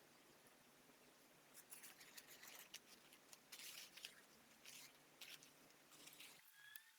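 Faint, irregular scratching and clicking from small hand work, starting about a second and a half in and going on in short strokes of up to half a second.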